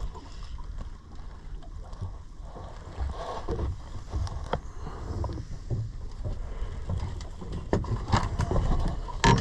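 Low rumble of wind and water around a small boat drifting at sea, with scattered small knocks and clicks of gear on board.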